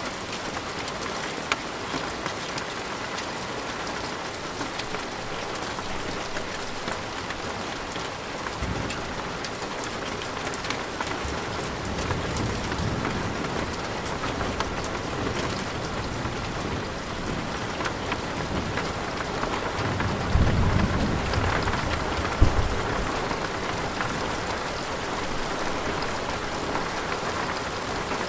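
Steady rain pattering, with rolling thunder rumbling twice: a low roll about twelve seconds in and a stronger one about twenty seconds in, with a sharp crack inside it.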